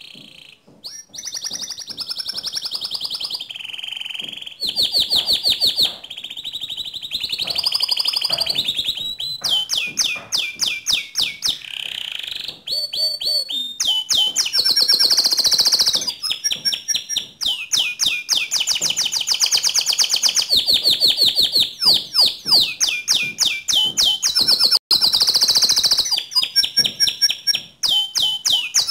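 Domestic canary singing a long, continuous song of fast rolling trills and quick, sharp high-pitched repeated notes.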